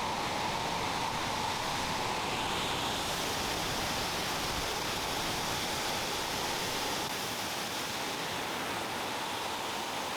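Waterfall, water rushing down steadily in an even hiss with no breaks.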